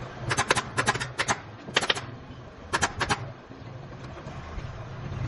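Pneumatic upholstery staple gun firing in quick bursts of two or three sharp clacks, five bursts in the first three seconds, over a steady low hum.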